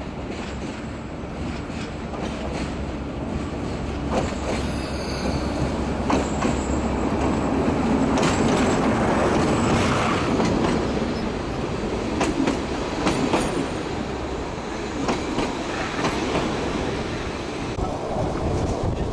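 Narrow-gauge diesel locomotive and its passenger coaches rolling slowly past, the engine rumbling and the wheels clicking over the rail joints. The wheels squeal now and then, and it is loudest about midway as the coaches go by.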